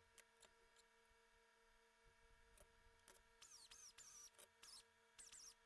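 Near silence: faint room tone with a steady low hum, and a few faint high chirps in the second half.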